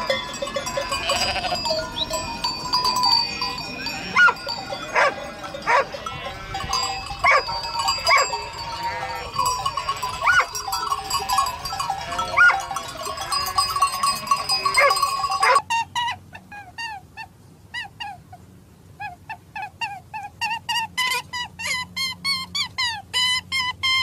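A large flock of sheep bleating over one another, with the steady ringing of bells worn by the flock. About two-thirds of the way through the sound cuts off, and a quieter run of short, high chirping calls follows, a few a second, getting denser near the end.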